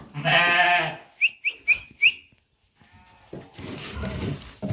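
One long bleat from the goats and sheep, followed by four short rising whistles, a person whistling to call the animals over. A low shuffling noise comes in near the end.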